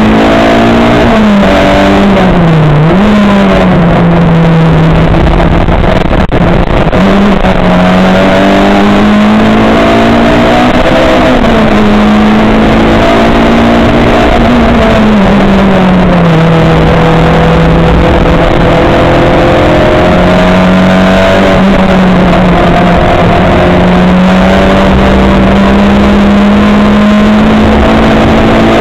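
Loud racing-car engine heard continuously from on board, its note rising and falling with throttle and gear changes, over a steady rush of road and wind noise.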